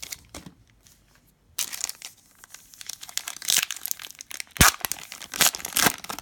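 Plastic trading-card pack wrapper crinkling and tearing as it is opened by hand, starting about a second and a half in, with one sharp snap midway through.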